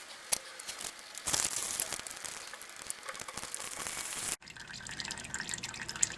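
Warm engine oil draining out of a Citroen Ami 6's sump into a drain pan, a steady trickling, splashing stream. It breaks off abruptly about four seconds in and gives way to a fainter, steadier trickle.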